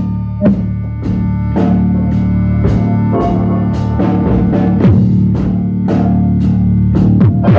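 Band playing rock music, with drum kit, guitar and a sustained low bass line, cymbal hits falling about twice a second on a steady beat; the recording's sound quality is poor.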